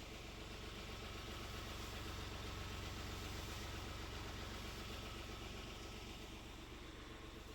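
A steady low engine hum, running evenly throughout.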